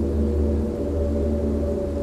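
Dark ambient drone music: sustained low tones over a deep rumble, with a soft pulsing in the middle register.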